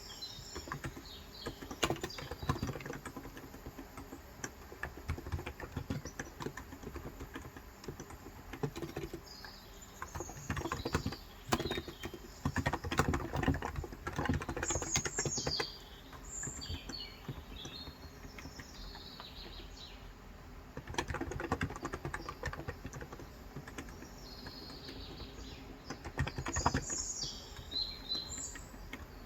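Typing on a Cox Endeavour electro-capacitive keyboard with 35 g switches: runs of keystrokes with short pauses between them. Birds chirp briefly in the background several times.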